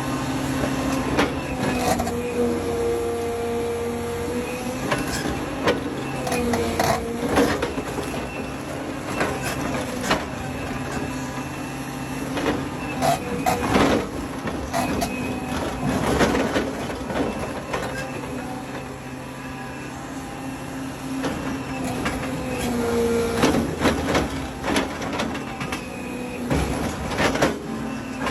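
Heavy machinery running steadily under load, with a pitched whine that rises and drops out several times and repeated metallic clanks and knocks.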